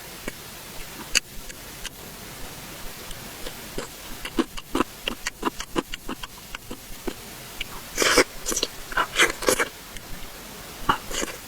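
Close-miked eating sounds: irregular wet mouth clicks and smacks of chewing, with a louder run of bites and smacks about eight seconds in.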